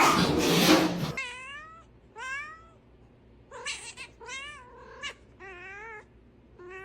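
Cat crying: a loud, rough cry in the first second, then a string of short, wavering meows.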